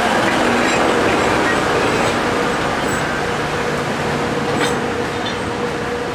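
Alishan Forest Railway train in motion: a steady rumble of wheels and running gear with a faint engine hum, broken by a few sharp clicks, slowly growing quieter.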